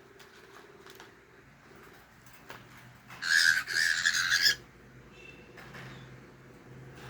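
Cockatiel giving a harsh squawk that lasts just over a second, about three seconds in, with a brief break in the middle.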